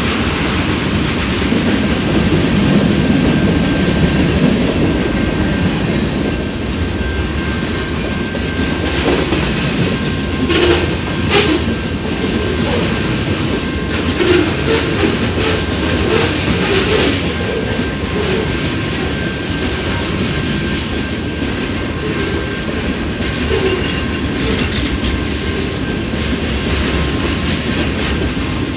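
Freight cars of a manifest train (tank cars, covered hoppers and boxcars) rolling steadily past a grade crossing, steel wheels clattering over the rail joints, with a few louder clanks about ten and fifteen seconds in. A faint steady high tone runs under the rolling.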